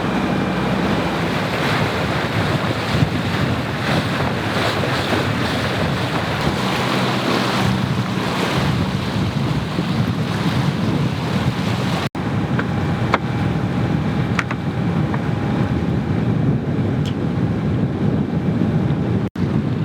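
Wind buffeting the microphone over water rushing along the hull of a yacht under way in a stiff breeze, a steady loud noise. It drops out suddenly and briefly twice, once about twelve seconds in and once near the end.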